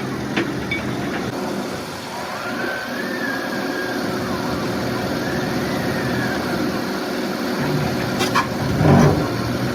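Heavy vehicle engine running steadily, with a faint whine that rises and falls twice and a louder rush of noise near the end.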